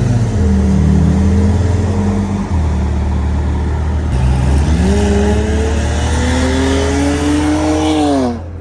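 Car engine pulling under acceleration over heavy wind and road noise. Its pitch climbs steadily from about halfway through, then drops away just before the end.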